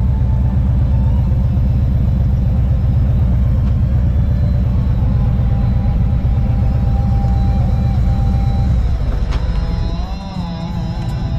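Harley-Davidson V-twin motorcycle engine running at low speed with a steady deep rumble, which eases off briefly near the end before picking up again.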